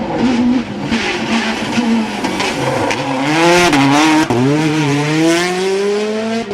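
Rally car engine on a special stage, running unevenly with a wavering pitch, then accelerating hard with a steadily rising pitch from about four seconds in.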